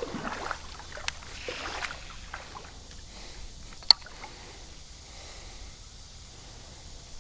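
Creek water running steadily, with a single sharp click about four seconds in.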